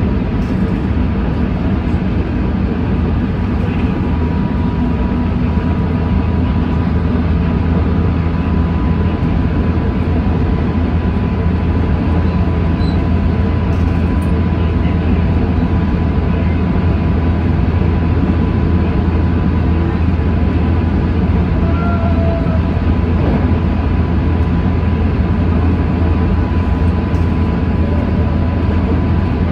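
JR Central 313 series electric multiple unit running steadily along the line, heard from inside the train: a continuous low rumble of wheels on rail with a faint, thin, steady whine.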